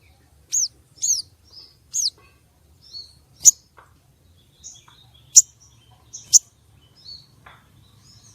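Female sogon bird calling: a run of short, sharp, high chirps, roughly one a second, some sliding down in pitch. This is the call used to lure and excite male sogons.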